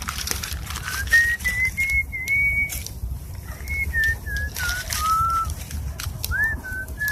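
A person whistling a slow tune of single held notes that step and glide up and down, with a few sharp clicks in the background.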